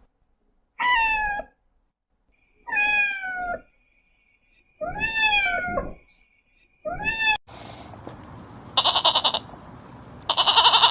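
A cat meowing four times, each meow a short call falling in pitch. Then, after an abrupt change of background, a goat bleats twice with long, quavering bleats, the second running into the end.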